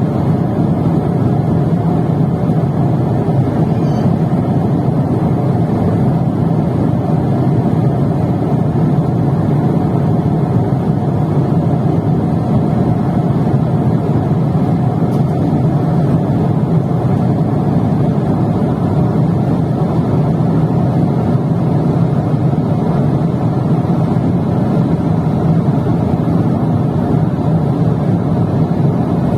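Steady, unbroken cabin noise of a jet airliner in flight: the constant rush of engines and airflow heard from inside the cabin.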